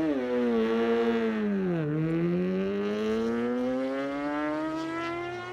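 Superbike engine accelerating hard. Its pitch drops sharply at a gear change about two seconds in, then climbs steadily as it pulls through the next gear.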